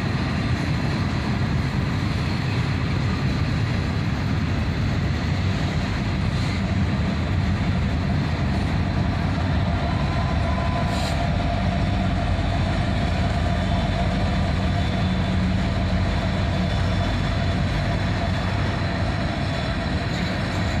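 Freight train rolling past, with a steady clatter of wheels on rail. An SD70-series diesel locomotive working as a distributed-power unit runs with its engine helping push the train.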